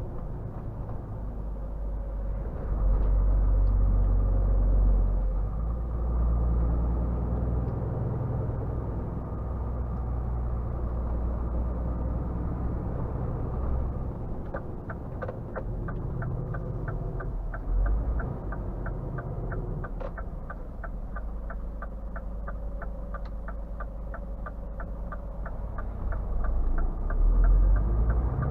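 Scania R 450 truck's 13-litre inline-six diesel running at low road speed, the rumble swelling briefly near the start and near the end. About halfway through, a steady quick ticking begins and carries on, typical of the turn indicator.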